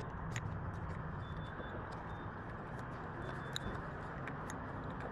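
Motorcycle engine running steadily at low revs, with scattered light clicks and taps over it.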